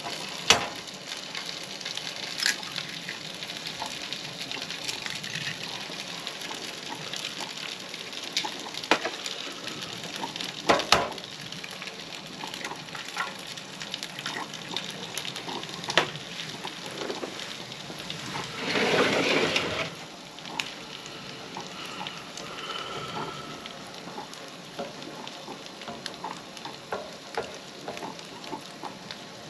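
Hash browns, sausage and toast frying in a skillet on a two-burner propane camp stove: a steady sizzle, broken by frequent light clicks and scrapes of a utensil turning the food. About two-thirds of the way through, a louder rush of noise lasts a second or two.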